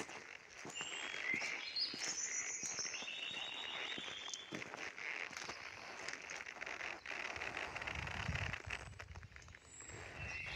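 Christmas bonfire crackling and popping in irregular short clicks. Small birds chirp in short trills during the first few seconds and again near the end, and a low rumble comes in about three quarters of the way through.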